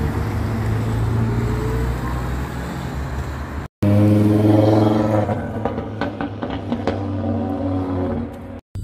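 Two hot cars heard in turn. First a Honda Civic Type R's turbocharged engine pulls away with a slightly rising note. Then, after an abrupt cut, an Audi RS3 saloon's five-cylinder engine accelerates past, louder, its note easing off with a series of sharp crackles.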